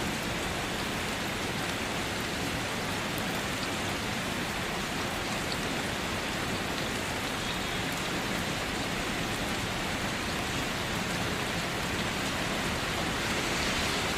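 Steady rain falling, an even hiss that grows slightly louder near the end.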